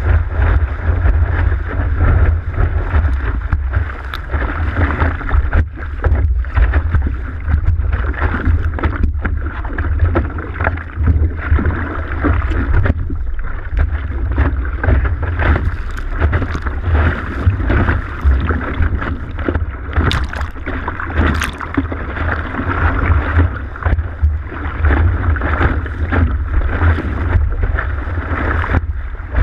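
Strong wind in a 15–20 knot breeze buffeting the microphone with a constant heavy rumble, over rushing, splashing water from a windsurf board planing across the sea, with scattered crackles.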